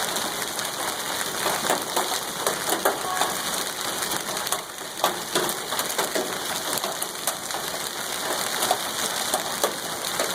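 Hailstones pelting down in a heavy hail storm: a dense, steady hiss of falling ice, dotted with many sharp individual clicks and knocks as stones strike.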